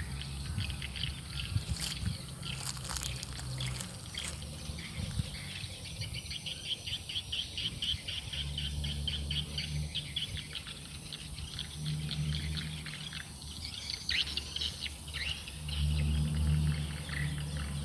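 Forest ambience: small birds chirping in quick repeated notes over a steady high insect drone, with a low rumble that swells and fades, strongest near the end.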